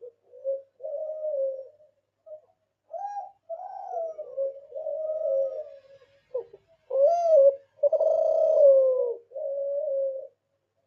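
Spotted dove (derkuku) cooing: a string of low, hollow coo phrases, some notes gliding down, loudest near the end before stopping.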